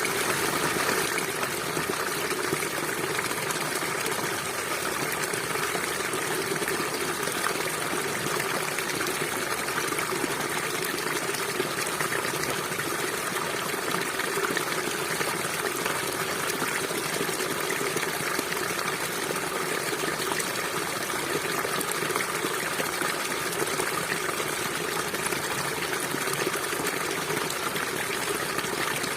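River water flowing steadily, an even, unbroken wash of sound.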